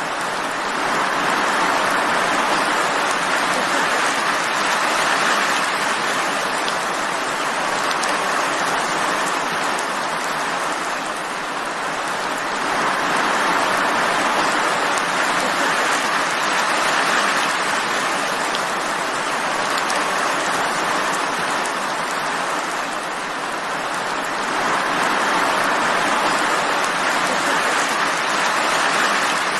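Steady rain falling, a dense even hiss of drops that swells and eases gently every several seconds.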